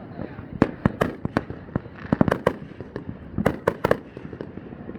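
Fireworks going off: many sharp bangs in quick clusters, one flurry after another.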